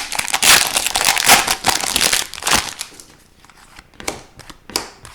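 Foil wrapper of an Upper Deck hockey card pack being torn open and crinkled for about three seconds, then a few light clicks as the cards are handled.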